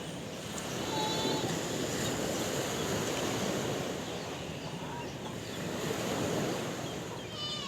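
Sea waves washing onto a shore, the surf swelling about a second in and again near the end. A short, high animal call sounds about a second in, and another, falling in pitch, near the end.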